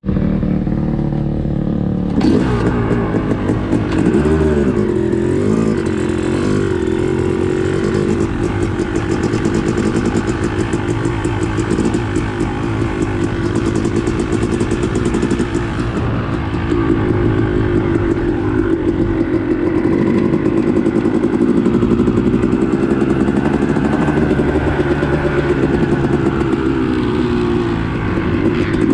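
Dirt bike engine heard up close from the rider's own machine, its pitch rising and falling continually as the throttle is worked on and off, with a rattling clatter over it.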